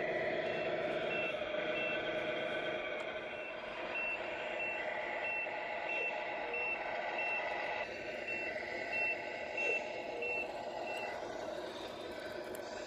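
Reversing beeper of a 1:14 scale RC semi truck sounding a steady run of beeps, about one and a half a second, over a steady engine hum. The beeps stop near the end, and two brief knocks come about two-thirds of the way through.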